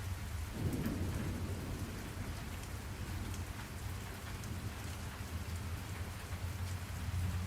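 Steady rain falling, pattering with fine drop ticks over a constant low rumble. A deeper swell like distant thunder builds just under a second in and fades over the next second.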